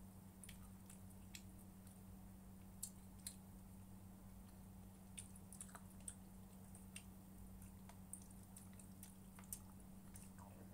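Faint eating sounds: scattered small clicks and soft mouth noises of chewing, over a steady low electrical hum.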